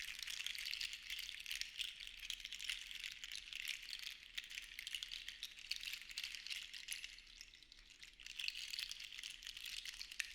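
Seashells rattling together as they are shaken, a dense patter of small clicks that thins out briefly about seven to eight seconds in and then picks up again.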